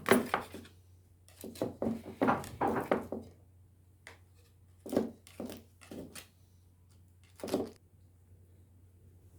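Short knocks and thuds of kitchen utensils being handled, in bursts: a quick run of several in the first three seconds, then single knocks about five, five and a half, six and seven and a half seconds in.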